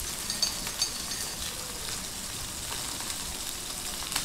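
Food sizzling steadily in hot oil in a pan while it is stir-fried. A metal utensil clinks sharply against the pan three times in the first second or so and once more near the end.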